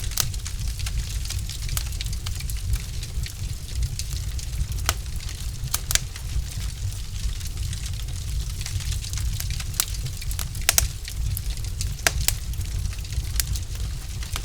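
Wood fire burning in a fireplace: logs crackling with irregular sharp pops over a steady low rumble.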